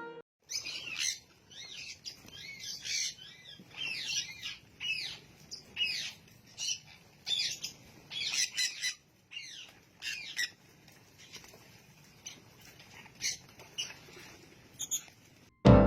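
A pet parrot chattering, with a run of short, high squawks and chirps coming irregularly, one after another.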